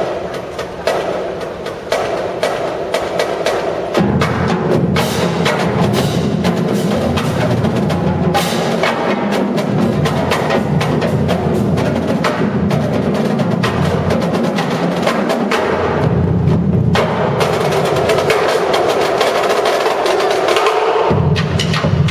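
Marching drumline playing: rapid, dense drum strokes, joined by a heavier, lower drum layer about four seconds in.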